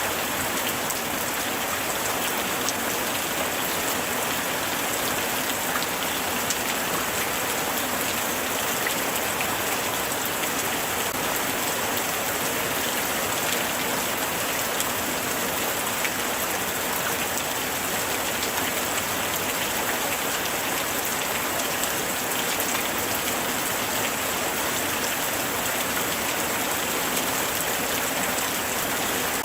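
Light rain falling steadily, an even hiss of many fine drop ticks on surfaces.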